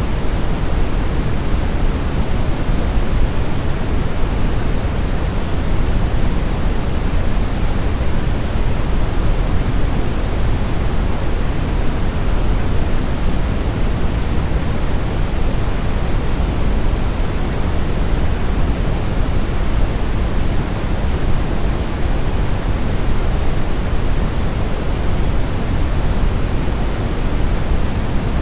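Steady brown noise: a continuous, even hiss weighted toward the low end, with no events or changes.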